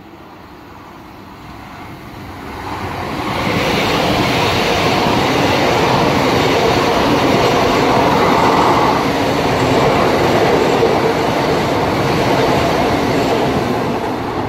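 Great Western Railway Class 802 IET bi-mode train, two units coupled, passing through the station at speed on its underfloor diesel engines. It grows louder over the first few seconds, holds a steady loud noise of wheels on rail and engines, and starts to fade near the end.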